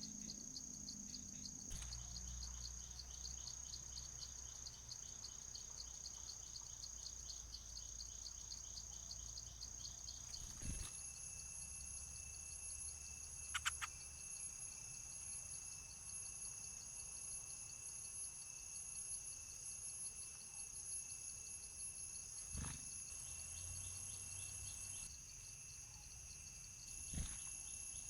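A chorus of insects keeps up a steady high-pitched trilling, with a fast pulsing buzz in the first part and again near the end. A brief chirp comes about halfway through, and there are a few faint clicks where the sound changes.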